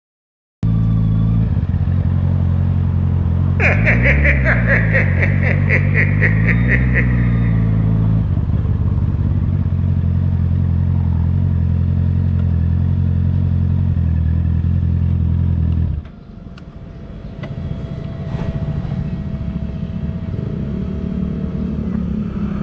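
Honda CB650R's inline-four with an Akrapovic exhaust idling, blipped twice about four and six seconds in, with a fast high ticking alongside the blips. The engine is switched off at about sixteen seconds, leaving quieter background noise.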